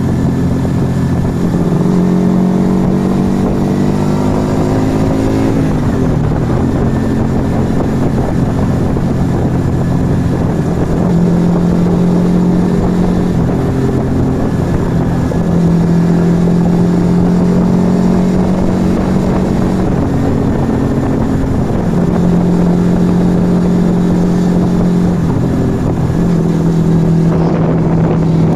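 1997 Yamaha XV125 Virago's small air-cooled V-twin running through an aftermarket Turbo Kit exhaust under way. It revs up in one gear over the first few seconds, drops in pitch at a gear change about six seconds in, then runs at a fairly steady pitch with a few small rises and dips.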